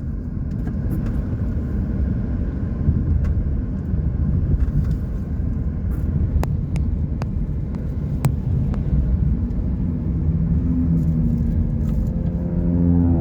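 Car driving, heard from inside the cabin: steady low road and engine rumble, with a few sharp clicks around the middle. Near the end a pitched engine note rises and falls.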